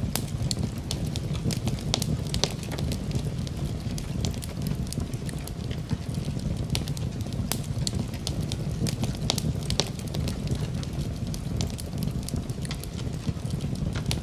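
Wood fire burning in a fireplace: a steady low rumble of flame with many sharp, irregular crackles and pops of burning wood.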